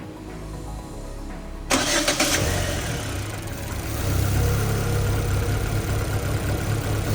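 Rebuilt SAIPA M15 four-cylinder engine starting: it catches suddenly a little under two seconds in and keeps running, a little louder near the end.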